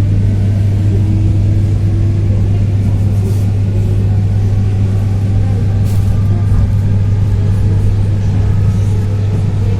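Old Russian electric commuter train running, heard from inside the carriage: a loud, steady low hum and rumble with faint whining tones drifting slightly in pitch and an occasional faint click.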